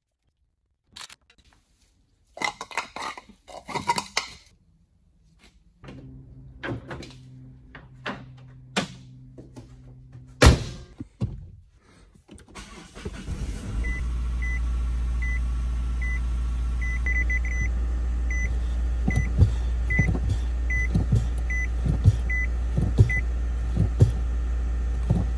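Hand tools clicking and clanking on a rear brake caliper, with one loud knock about ten seconds in. Then a 2018 Mazda 6's engine starts and idles steadily while a dashboard warning chime beeps about every 0.7 s, and the brake pedal is pumped several times with sharp thumps, pushing the caliper pistons back against the new brake pads.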